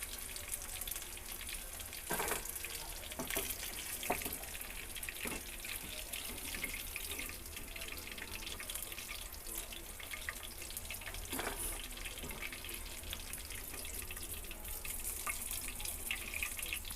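Chicken pieces frying in hot oil in a kadai: a steady sizzle with fine crackling, and a few louder pops or knocks now and then.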